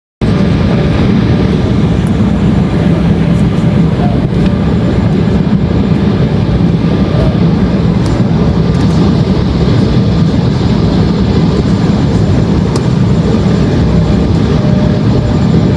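Steady, loud engine and airflow noise of a jet airliner in descent, heard from inside the cabin.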